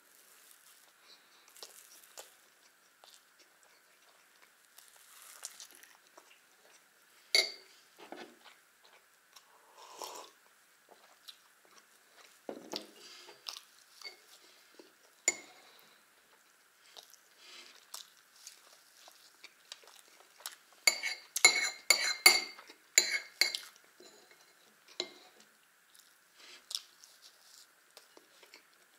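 Close-up chewing of soft pancakes, with small mouth and lip sounds, and a metal spoon clinking against crockery: one sharp clink about a quarter of the way in and a quick run of ringing clinks about three quarters of the way through.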